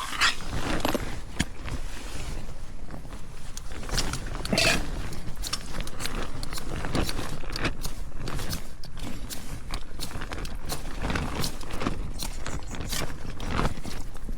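Wind buffeting a bothy bag shelter: the nylon fabric rustling and crackling, over a steady low rumble of wind on the microphone.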